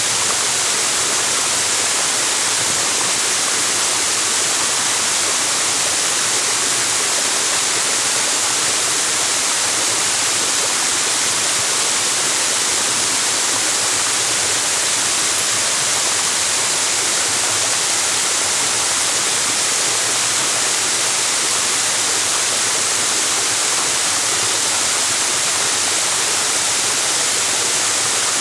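A large waterfall running steadily, water falling in a broad curtain down a rock face.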